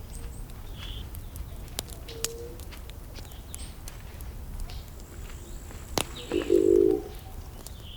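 Burning wood crackling, with irregular sharp pops over a steady low rumble, and birds chirping faintly in the background. A brief louder low-pitched tone, the loudest sound, comes near the end.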